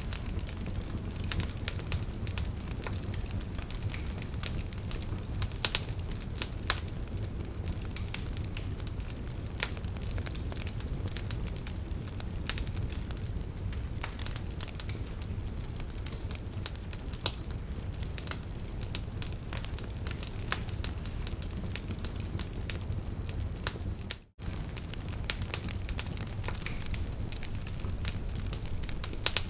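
Wood fire burning in a fireplace: a steady low rumble of flames with frequent sharp crackles and pops from the burning wood. The sound cuts out for an instant about three quarters of the way through.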